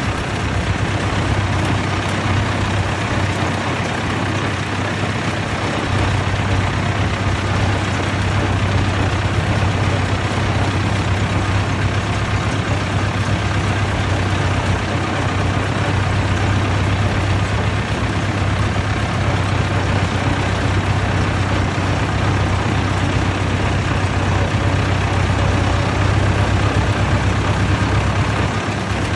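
Vintage tractor engine running steadily with a low drone.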